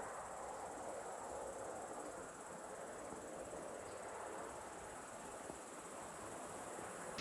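Insects chirring steadily, a thin high continuous sound over a faint background hiss.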